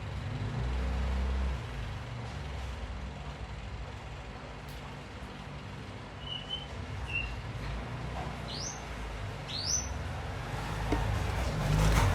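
Steady low rumble with bird calls over it: a few short chirps past the middle, two quick rising whistles, and more chirps near the end.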